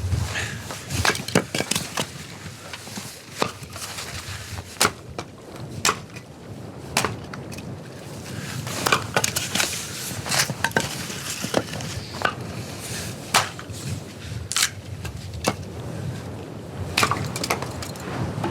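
Wood fire crackling: irregular sharp pops and cracks, a few a second, over a low steady rumble of burning.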